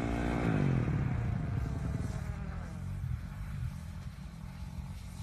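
Motorcycle engine passing by and fading away, its pitch falling in the first second.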